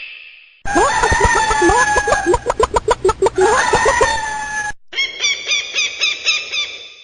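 Chickens calling: a rooster crowing and hens clucking, including a quick run of repeated clucks. This cuts off abruptly about three-quarters of the way through, and a different, higher bird call follows, repeating in a steady pattern.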